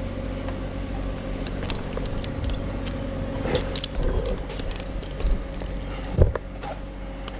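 An engine idling steadily, with light metallic clinks and taps over it and a sharper knock about six seconds in.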